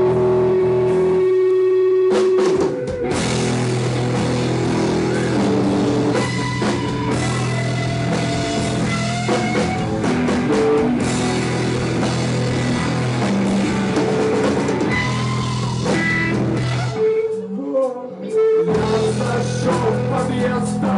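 Live psychedelic rock band playing an instrumental passage on drum kit, electric guitar and bass. A single held note opens, the full band comes in about three seconds in, and the sound thins out briefly a few seconds before the end.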